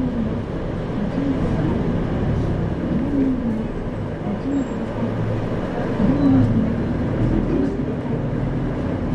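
Interior running sound of an Isuzu Erga 2RG-LV290N4 diesel city bus under way: a steady engine hum with road and body noise, the engine note rising and falling in short swells.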